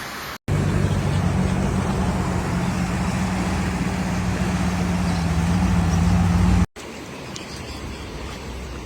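A motor vehicle's engine running steadily, a low even hum under a loud rushing noise, starting and stopping abruptly at edits.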